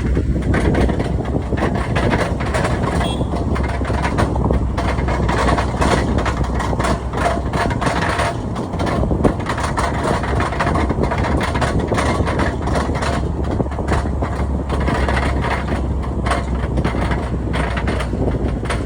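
Loud, continuous motor-vehicle noise: engines running with a steady low rumble, and many small knocks and crackles mixed in.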